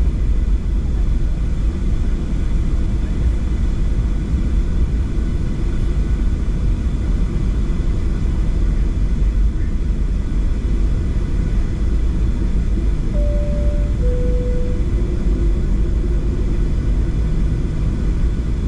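Steady low rumble inside the cabin of a Boeing 737-700 on the ground. About two-thirds of the way through, a two-tone high-low cabin chime sounds once.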